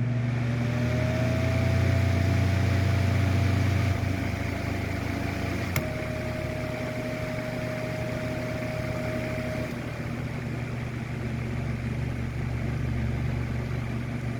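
Mainstays 9-inch personal box fan (model MBF-918) starting up and running: its electric motor hums steadily, and a faint whine rises in the first second as the blades come up to speed, then holds. There is a single click about six seconds in.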